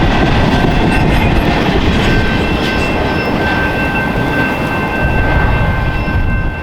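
Intermodal freight train cars rolling past close by: a steady heavy rumble with wheels clacking over the rail joints. A thin, steady high ringing from the wheels joins in about two seconds in, and the sound starts to fade near the end.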